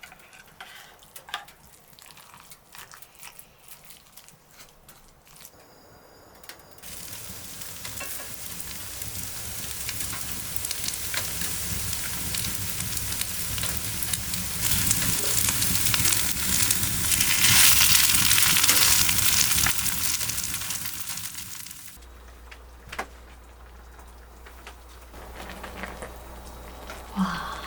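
Food sizzling and frying in a hot pan. The sizzle starts suddenly after a few light taps of utensils, grows louder, then cuts off about three quarters of the way through, leaving a low hum and a few taps.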